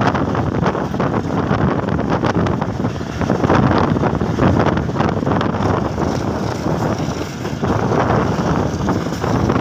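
Wind buffeting a microphone held out of a moving passenger train's window, over the steady rumble of the train running on the track.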